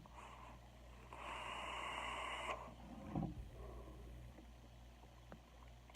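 Breathy hiss of a vape hit being drawn or blown out, lasting about a second and a half, starting about a second in, over a faint low room hum.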